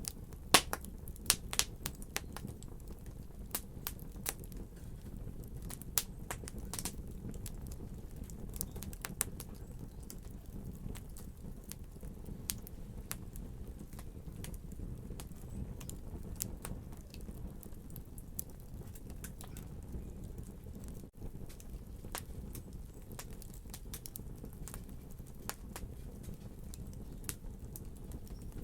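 Wood fire in a fireplace crackling, with sharp pops of burning wood over a low, steady rumble of flames. The pops come thickly in the first few seconds, then more sparsely.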